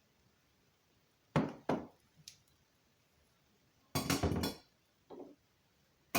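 Clinks and clatter of hard objects being handled or set down: two sharp knocks about a second and a half in, a longer clatter around four seconds in, a softer knock after five seconds, and another right at the end.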